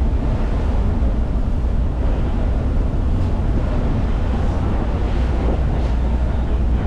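Wind buffeting the microphone over a steady low rumble, with sea-wash noise, as on a passenger ferry under way.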